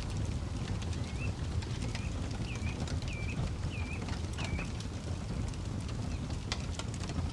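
Campfire crackling, with sharp pops now and then over a steady low rumble. A bird calls a quick series of about six short hooked chirps over the first half.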